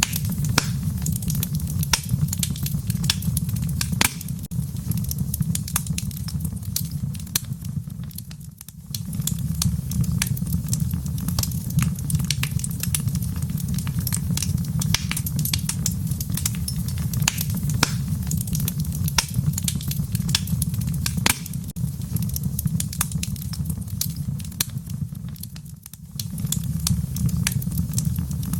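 Wood fire in a fireplace crackling, with frequent sharp irregular pops and snaps over a steady low rumble of the flames. The sound dips briefly twice, about a third of the way in and near the end.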